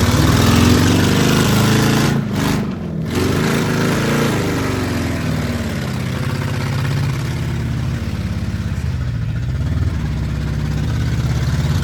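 V8 engines of demolition derby cars revving and running, the pitch rising and falling, with a brief drop in level about two and a half seconds in and steadier running after about five seconds.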